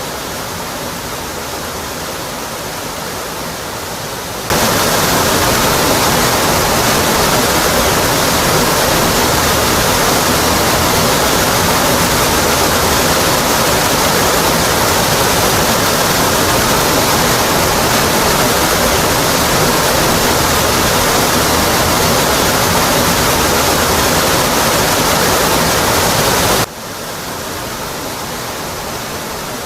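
Steady rushing of a waterfall, water falling onto rock. About four seconds in it jumps suddenly louder and fuller, holds there, and near the end drops back abruptly to the softer level.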